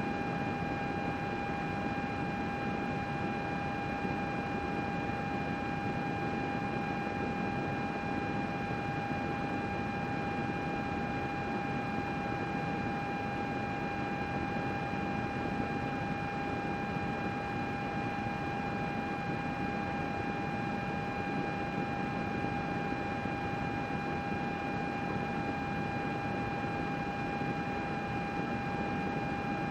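A computer running steadily: its cooling fans make an even whoosh with a constant high whine over it.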